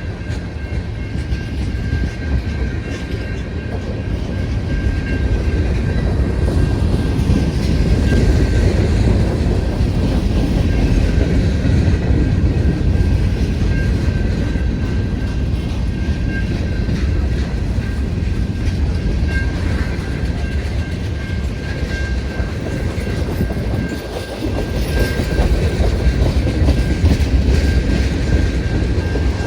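CN freight train rolling past, a continuous heavy rumble of steel wheels on the rails, dipping briefly about 24 seconds in.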